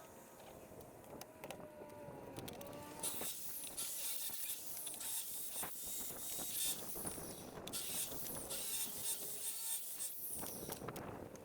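A saw cutting through wood: a rasping noise made of many short strokes, which starts about three seconds in, breaks off briefly partway and stops shortly before the end.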